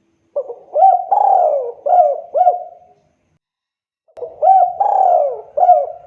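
Spotted dove (tekukur) singing its cooing song: two phrases of about five rolling coos each, with a pause of about a second between them.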